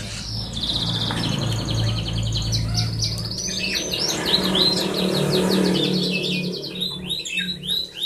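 Small birds chirping continuously in fast, repeated high notes and short falling calls, over a low steady hum.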